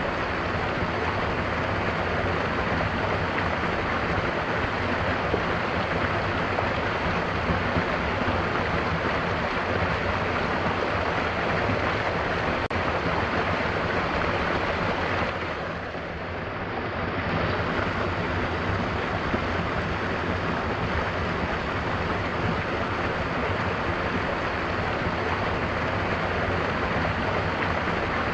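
Mountain waterfall rushing steadily, an even roar of falling water. A little past halfway it briefly dips in level for about two seconds, then returns.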